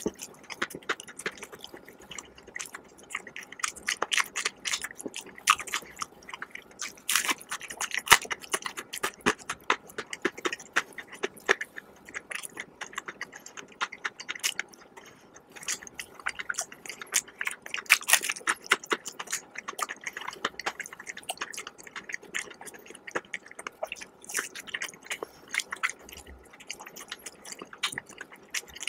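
Close-miked chewing of crispy fried chicken: a steady stream of wet, crackling crunches and mouth clicks as the batter coating is chewed.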